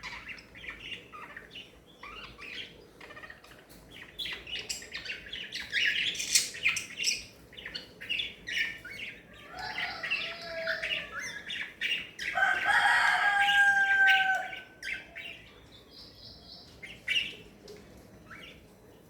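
Small pet parrots chirping and chattering, a stream of short chirps and clicks. Louder calls come through the middle, including a longer call with held whistled notes about two-thirds of the way in.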